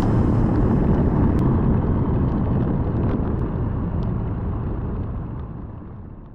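Motorcycle riding at speed, a steady rushing noise of engine and wind that fades away over the last second or two.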